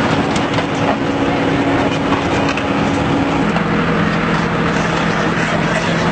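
Engine of a heavy machine, such as a backhoe, running steadily; its tone shifts slightly about three and a half seconds in.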